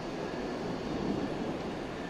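Distant electric commuter train running along the tracks: a steady low rumble under a wash of noise, swelling slightly about a second in.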